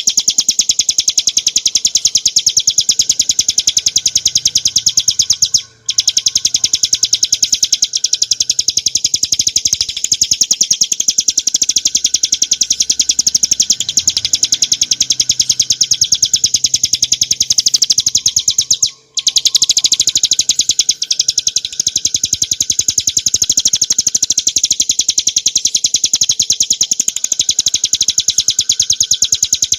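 Ciblek gunung, a small prinia, singing a long, loud run of very rapid high chips, with two brief breaks.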